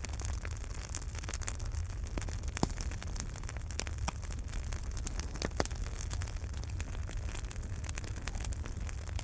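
Fireplace wood fire burning with a low steady rumble and irregular sharp crackles and pops from the burning logs.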